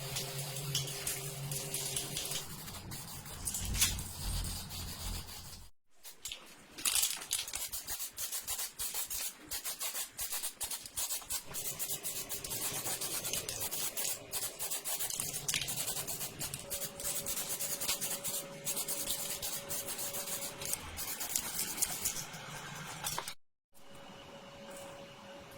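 Hand sanding: quick, repeated rubbing strokes over a surface, broken by two abrupt cuts between clips.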